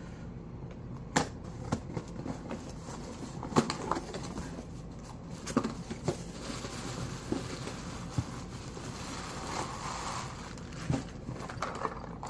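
Cardboard package being cut and opened by hand: scattered sharp clicks and short scrapes with rustling of cardboard and packing.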